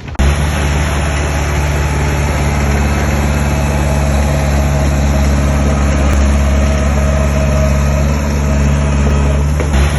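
Heavy diesel engine of a construction machine running steadily at an even, low pitch; it cuts in abruptly at the start.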